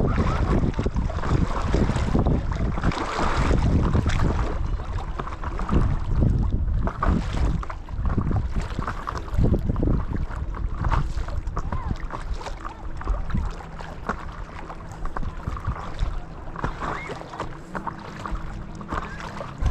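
Paddle strokes splashing and choppy water slapping around a paddle board in irregular surges, with wind buffeting the microphone.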